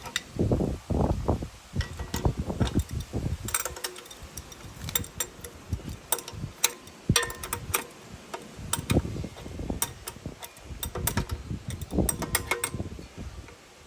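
Irregular metallic clicks and low knocks of hand tools at work on an engine-stand mount, like a wrench or ratchet tightening the bolts.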